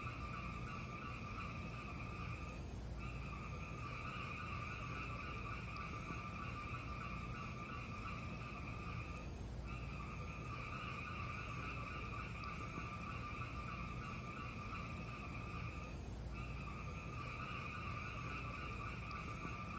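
Fireplace fire burning with a steady hiss and low rumble. The hiss dips briefly about every six and a half seconds, as in a repeating loop.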